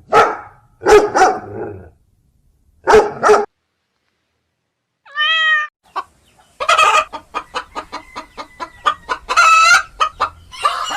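A dog barking three times, then a single cat meow about five seconds in, followed by chickens clucking rapidly and calling.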